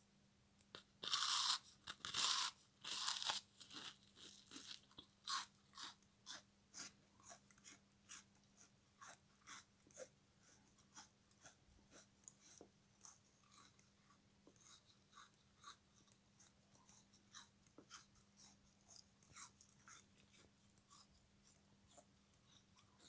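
A frozen, syrup-soaked sponge being bitten and chewed: two loud crunching bites about one and two seconds in, then steady crunchy chewing about twice a second that grows fainter toward the end.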